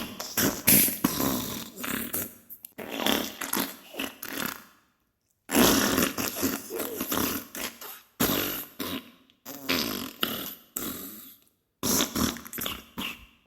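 Diarrhea sound effect: a run of farting noises broken into many short bursts, with a silent gap of under a second about five seconds in.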